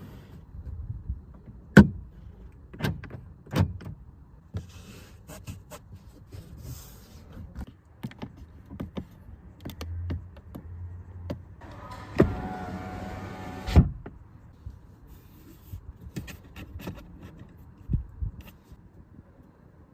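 Clicks and knocks of car controls being worked, and about twelve seconds in an electric motor whines for about a second and a half, then stops with a knock, as a power window does when it runs to its stop.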